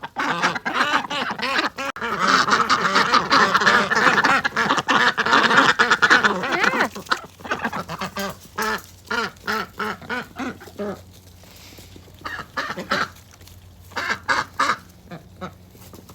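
Ducks quacking: a busy overlapping chorus for the first several seconds, then thinning to scattered short quacks.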